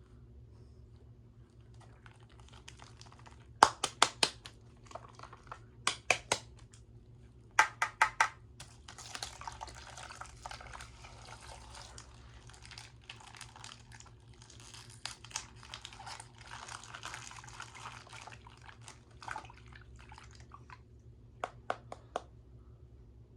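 Plastic bag of coloured liquid being broken open and handled: crinkling plastic and wet sloshing for about ten seconds. Before it come three quick groups of three or four sharp clicks, and a few more clicks come near the end.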